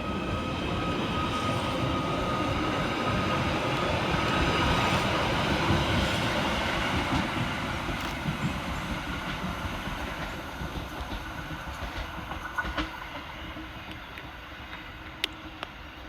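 Merseyrail Class 777 electric multiple unit departing: wheels on the rails and the running gear grow louder, with a steady high whine over the first few seconds, then fade as the train draws away. Scattered clicks come over the rail joints as it goes.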